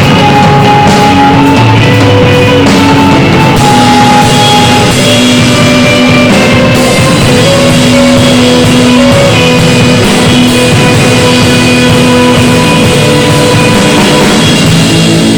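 Band playing a gospel hymn in a rock style with drum kit and guitar, very loud, its melody carried in held instrumental notes that change every second or so.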